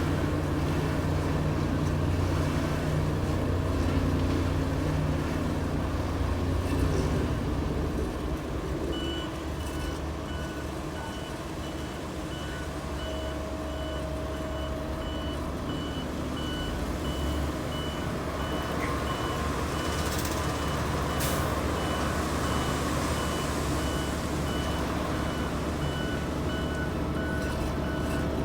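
Heavy sand truck's diesel engine running, louder for the first several seconds and then easing off. A reversing alarm starts about a third of the way in and beeps steadily at an even pace.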